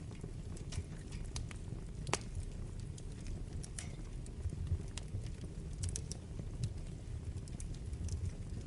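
Wood fire burning in a fireplace: a steady low rumble of flames with irregular sharp crackles and pops from the burning logs, one louder pop about two seconds in.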